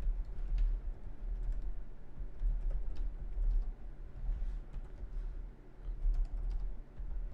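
Typing on a computer keyboard: irregular key clicks over a low, steady hum.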